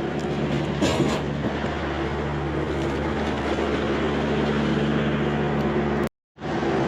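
A vehicle running: a steady low engine hum under even road-like noise, with a few light knocks. The sound drops out completely for a moment about six seconds in.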